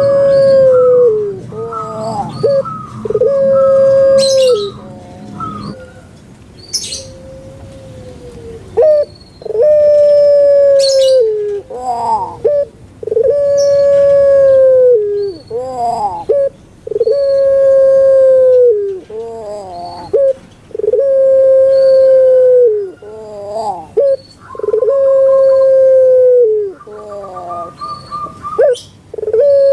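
Puter pelung, a long-calling breed of Barbary dove, cooing over and over: a long drawn-out note held level and then dropping away, about every two seconds, with short swooping notes between the long ones. The calls are sparser with a pause in the first third, then come regularly.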